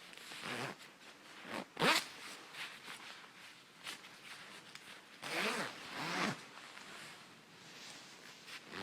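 Zipper of a 66°North packable coat being slid along its teeth in separate strokes. The loudest is a short sharp pull about two seconds in, and a pair of longer strokes follows just past halfway.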